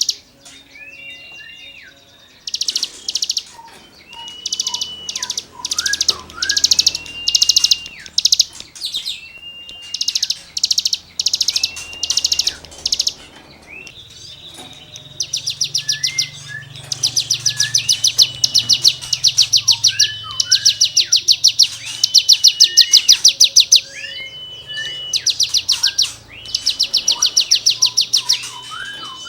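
A cigun (ciblek gunung) singing in full 'nembak' mode. It repeats fast, high, rasping rattles of about a second each, alternating with short clear whistled notes and quick falling slurs. The rattles come faster and louder from about halfway through.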